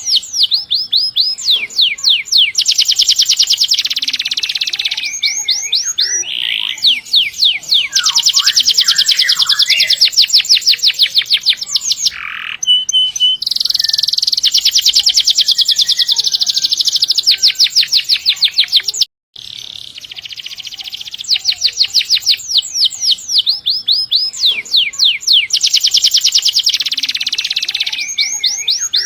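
Domestic canary singing long, rapid rolls: fast, evenly repeated high notes held for several seconds at a time, with short changes of phrase between them. The song cuts out to silence for a split second about two-thirds of the way through.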